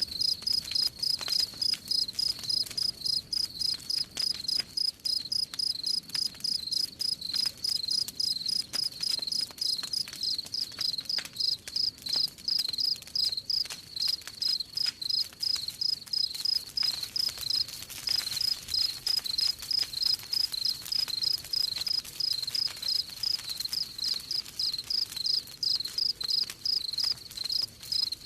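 A cricket chirping in a steady, even rhythm of high-pitched pulses, with faint crackling of a campfire beneath it.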